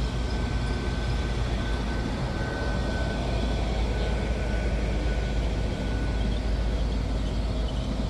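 Steady low rumble of a running vehicle engine, with a thin high whine over it.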